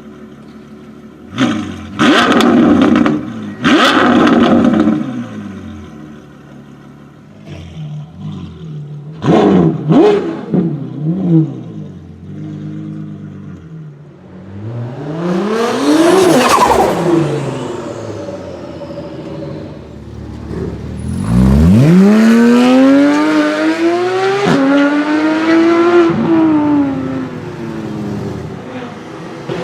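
High-performance car engines revving in short sharp blips, then a car passing with its engine note rising and falling in pitch. Near the end, a hard acceleration climbs in pitch through two gear changes.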